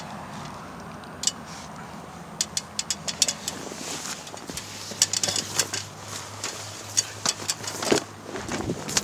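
Footsteps crunching on gravel or pavement: irregular sharp clicks and crunches over a steady outdoor background, with a low steady hum coming in about halfway through.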